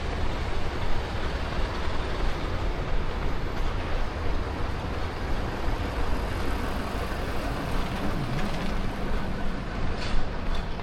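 Steady outdoor street noise with a heavy low rumble, heard from a runner's action camera.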